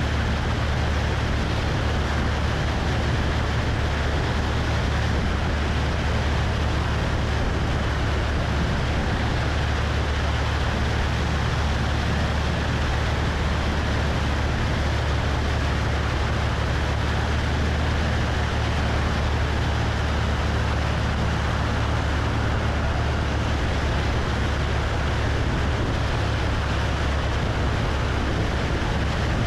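Cessna 172's piston engine and propeller running at a steady drone, mixed with wind rushing over a wing-mounted camera.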